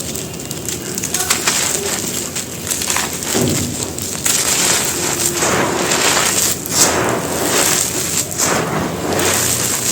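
Big chunks of bajri (gravel-and-cement) crumbling and being crushed, a continuous run of irregular crunches and gritty crackles with a few heavier crunches among them.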